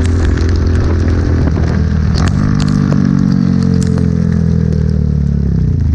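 Honda Grom's 125cc single-cylinder engine running under way, its note changing about two seconds in, then easing gradually and dropping near the end as the revs fall. Scattered sharp ticks sound over the engine.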